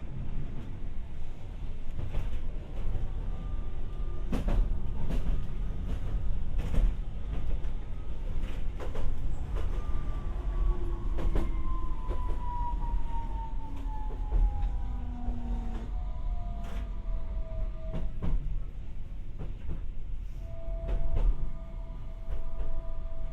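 Tokyu Setagaya Line 300 series light-rail car running, heard from inside the car: a steady low rumble with scattered sharp clicks from the wheels over the track. About ten seconds in, a thin whine falls steadily in pitch for several seconds, and a steadier tone sets in near the end.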